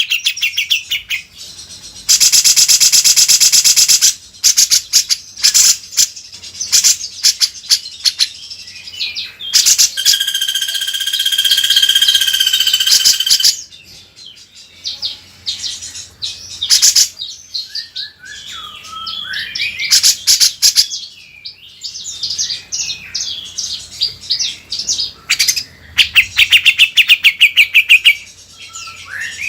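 Cucak jenggot bulbul singing a loud, varied song of sharp chattering and sliding notes, with a rapid buzzy trill about two seconds in and a long steady whistled note in the middle.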